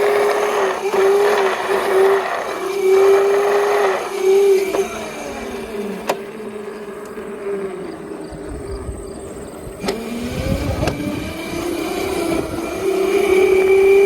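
Razor MX350 electric dirt bike's motor and chain drive whining under throttle. The whine holds steady, sags and falls in pitch around the middle as the bike slows, then climbs again near the end. A few light clicks come through.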